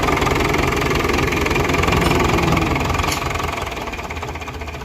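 Fordson Super Major tractor's four-cylinder diesel engine running with a rapid, even beat, growing gradually quieter over the second half.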